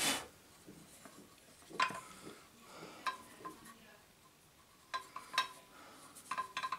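Scattered metallic clinks and knocks of tools and metal parts being handled while a miter saw is taken apart, a few of them leaving a short metallic ring; louder clusters about two, three and five seconds in and near the end.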